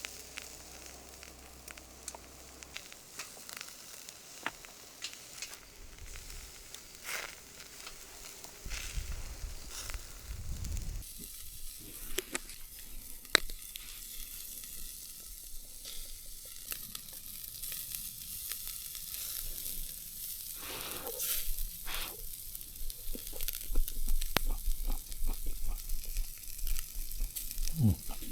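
Food frying in a hot pan. A steady sizzle begins about eleven seconds in, after a stretch of light clicks and knocks, with pops and crackles that grow louder near the end.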